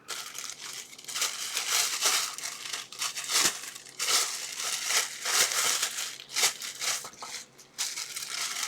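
Plastic packaging bag crinkling and rustling in irregular bursts as it is handled and opened to get the parts out.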